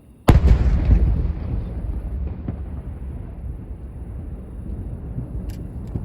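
Fireworks going off, heard from a distance: one sharp, loud bang about a third of a second in, then a long rolling rumble of echoing booms with scattered smaller pops and crackles that slowly fades.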